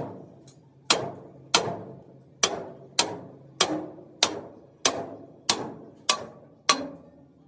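Hand hammer striking metal in a steady series of blows, about ten strikes at a bit under two a second, each with a short ringing decay.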